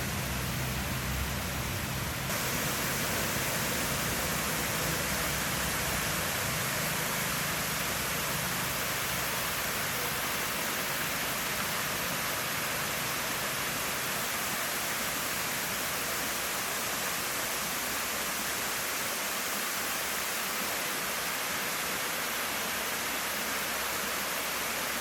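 Waterfall pouring steadily: an even, constant rush of water. A low rumble underneath fades out over the first several seconds.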